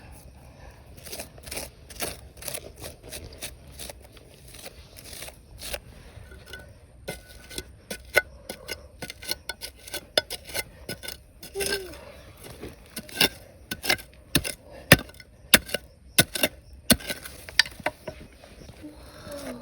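Stones and gravel clicking and knocking together as they are handled during gold prospecting: irregular sharp clinks, busier and louder in the second half. A short vocal 'oh' comes about midway.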